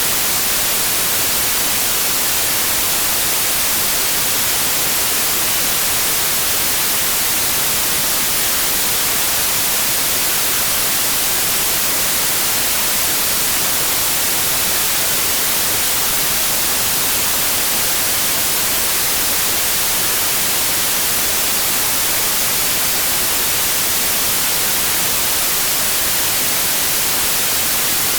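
Steady white noise: an even, unbroken hiss, brightest in the treble, with no tones or changes.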